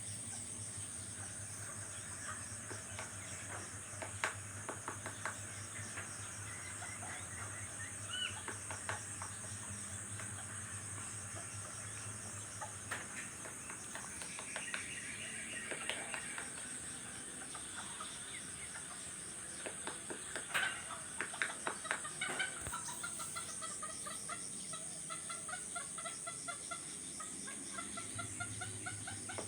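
Domestic chickens clucking in short repeated runs over a steady high-pitched insect drone. A few clusters of sharp taps stand out, the loudest about 20 to 22 seconds in.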